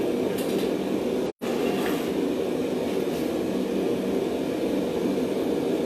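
Steady, even rushing noise of a running forge, with a momentary cut-out of all sound about a second and a half in.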